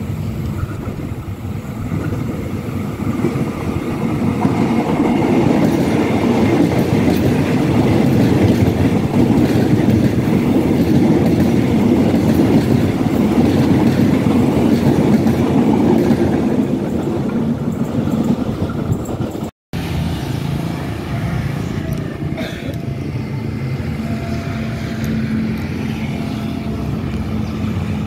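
KRL Commuter Line electric commuter train passing close by: the rumble of its wheels on the rails builds over the first few seconds, stays loud through the middle, then eases off. After a sudden break about two-thirds through, a steadier, quieter hum with a faint held tone.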